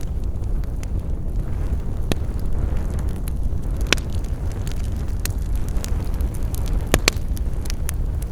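Campfire crackling: irregular sharp pops and snaps from burning wood, the loudest about four and seven seconds in, over a steady low rumble.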